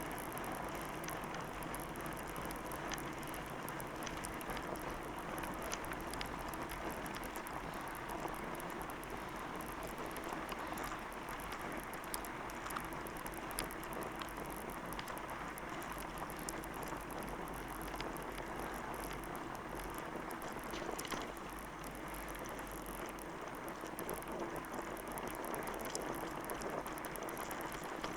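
Steady grainy crunching and rustling of movement along a loose trail surface, with many small clicks and ticks throughout.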